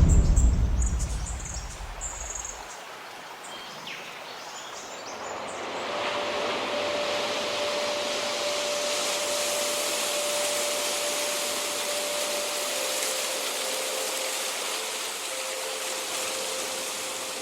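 A deep boom dies away over the first couple of seconds, with a few faint high chirps. About six seconds in, a steady rushing noise like wind or flowing water swells in, with a faint held high tone over it.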